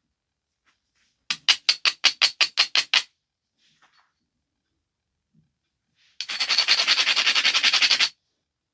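Stone biface edge being abraded: about ten quick, evenly spaced scraping strokes (about six a second), then after a pause a faster, continuous scrape lasting about two seconds.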